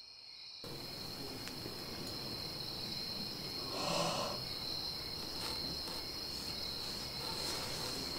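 Crickets chirring steadily, a continuous high trill that comes in about half a second in. A brief soft rustle-like noise is heard about halfway through.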